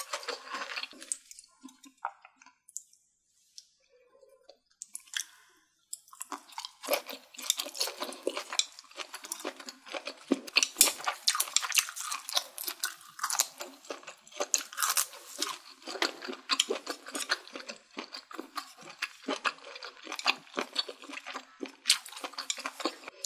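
Close-miked chewing: a person crunching a mouthful of fresh herbs and leafy greens. It goes quiet for a few seconds near the start, then from about six seconds in turns to steady, crisp crunching.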